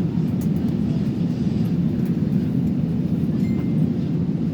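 Airliner cabin noise: a steady low rumble and hum from the engines and air system as the plane rolls on the ground after landing.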